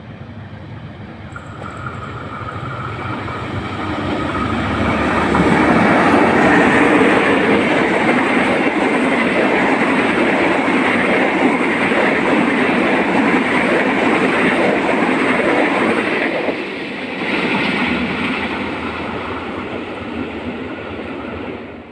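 A diesel-hauled passenger train of stainless-steel coaches passes close by on the rails. The locomotive's engine and wheel noise grow over the first few seconds. Then there is a steady loud rush and clatter of wheels on rail as the coaches go by, easing off toward the end.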